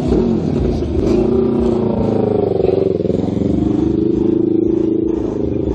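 Car engine and exhaust running loudly. The pitch rises slightly about a second in, dips around the middle, then holds steady, as if revved gently or driven slowly at low speed.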